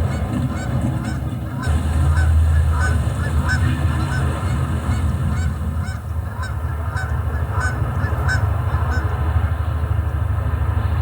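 A flock of Canada geese honking in a quick run of repeated calls, thinning out near the end, over a steady low rumble.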